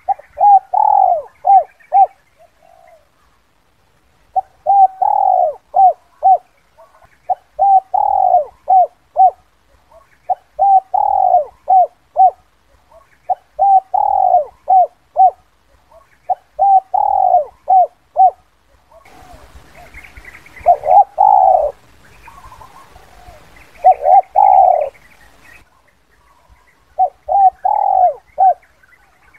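Spotted dove (Spilopelia chinensis) cooing its 'kuk 2' call: phrases of a few short notes around a longer coo, repeated about every three seconds, about nine times. A faint hiss sits under the calls for a few seconds past the middle.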